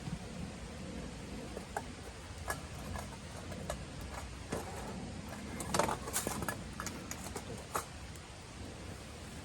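Wood fire crackling: scattered sharp pops and crackles over a low steady hiss, coming thickest a little past the middle.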